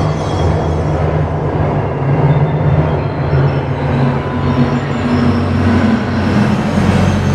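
Steady low rumbling drone over a noisy hiss, part of an electronic ambient sound-effects composition. Its low tones shift slightly in pitch about four seconds in.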